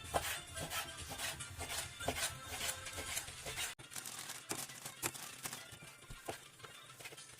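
Food-preparation handling noises: repeated light scraping, rubbing and small knocks. A steady low hum underneath cuts off abruptly about halfway through.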